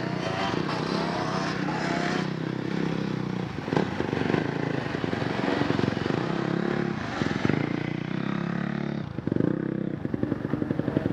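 Off-road motorcycle engine running at idle, with a dense, even pulsing from its firing and a few brief changes in pitch and level.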